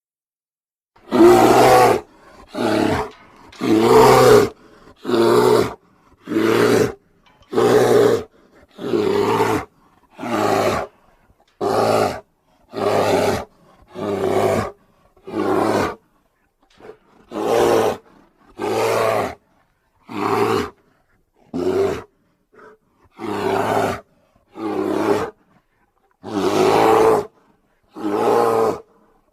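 A string of about twenty short big-cat roars and growls, each under a second long and cut cleanly with silence between them: edited creature-voice sound effects.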